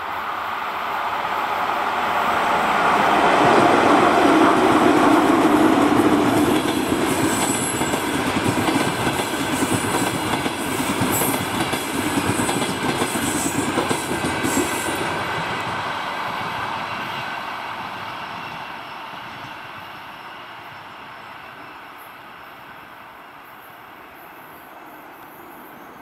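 ChS8 electric locomotive hauling a passenger train past: the noise swells to its loudest a few seconds in as the locomotive goes by. Then the coaches' wheels clack over the rail joints, and the sound fades away as the train draws off.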